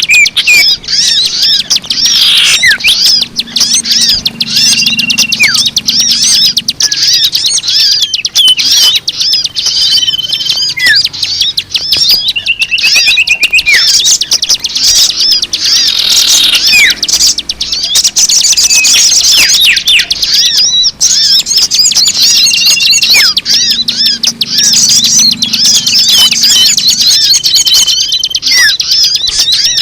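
Bird-lure recording: a dense chorus of many small birds chirping and twittering at once, rapid overlapping high notes with short whistles, played continuously to attract wild birds.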